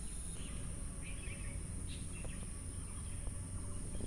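Birds chirping, a few short calls scattered through, over steady outdoor background noise.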